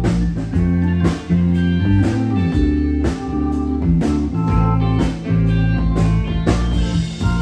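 Live rock band playing an instrumental passage: electric guitar, bass and drum kit, with the drums striking in a steady beat and no singing.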